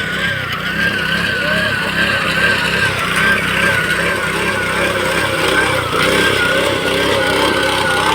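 Rice harvesting machine's engine running steadily, with a high whine that wavers up and down in pitch.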